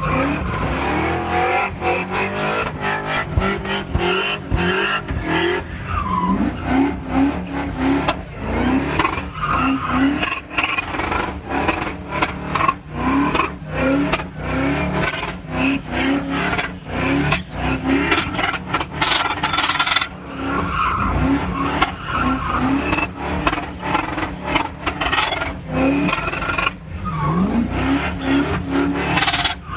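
Vehicle engines revving hard in repeated short bursts, with tyres squealing and skidding, as in burnouts and donuts.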